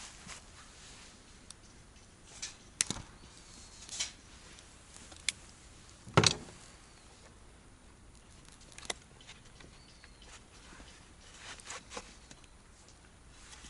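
Scattered sharp clicks and knocks at irregular intervals, the loudest about six seconds in, over a quiet background.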